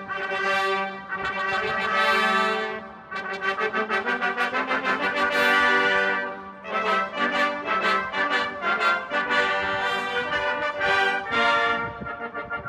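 Military brass fanfare ensemble playing a fanfare: held brass chords alternating with quick runs of rapidly repeated tongued notes.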